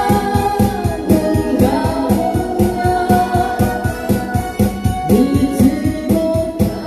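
Instrumental backing music with a steady, quick drum beat under an organ-like electronic keyboard melody, between sung lines of a Korean pop song.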